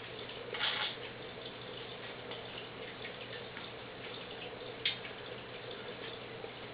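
Scattered small clicks and taps of a budgie playing with the toys on its play gym, with a short rattle about half a second in and a sharper click near five seconds, over a steady low hum.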